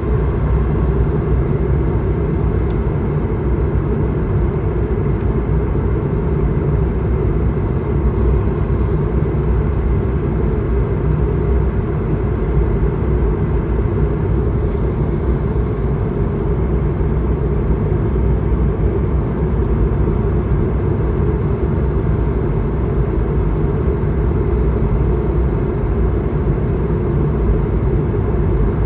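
Steady cabin noise of an Airbus A220-300 in flight, a constant rush of airflow and drone of its Pratt & Whitney geared turbofans, heavy in the lows, with a faint thin whine high above.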